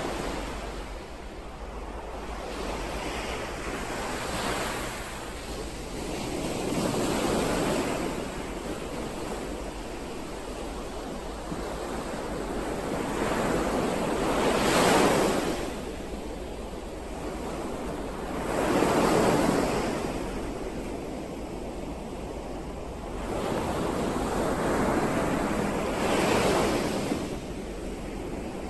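Ocean waves breaking and washing in, the surf swelling louder and fading away four or five times.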